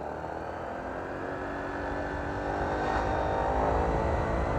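Honda PCX scooter accelerating on part throttle: the engine and modified CVT's turbo-like whine rise steadily in pitch and grow louder.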